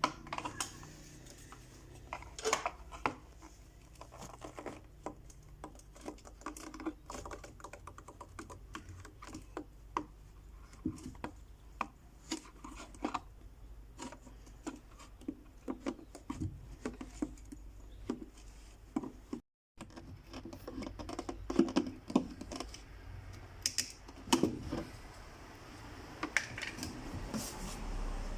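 Scissors snipping through stiff plastic sheet: a long irregular run of small sharp clicks and crunches, broken off briefly about two-thirds through.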